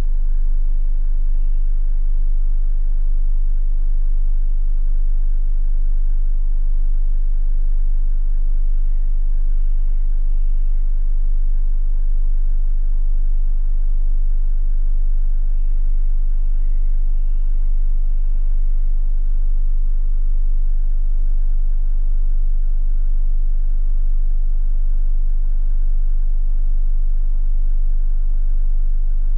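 Scania K250IB bus's diesel engine running steadily as a deep hum that holds the same pitch throughout.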